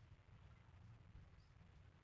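Near silence: a steady low hum of room tone, with one faint high tick about one and a half seconds in.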